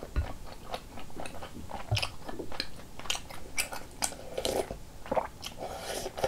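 Close-miked wet chewing and mouth clicks from eating rice cake soup. A spoonful of broth is taken at the lips about two-thirds of the way through.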